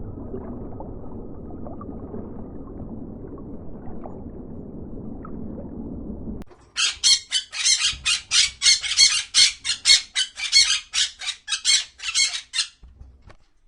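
A low, even rumbling noise for about six seconds, then an animal's harsh, high calls repeated rapidly, about four or five a second, for some six seconds before stopping.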